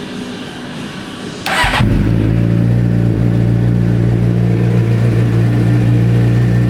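2007 Suzuki GSX-R600's inline-four engine, fitted with an aftermarket exhaust, starting with a short burst about a second and a half in, then settling into a steady idle with a rumble.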